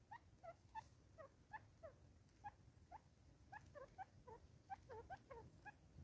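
Faint, short downward-sliding bird calls, two or three a second, irregular and overlapping, like soft peeps or clucks.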